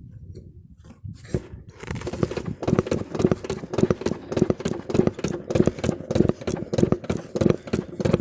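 Lawn tractor rear wheel being knocked onto its greased axle: a fast run of knocks, about four a second, starting about a second in, driving the wheel on the rest of the way.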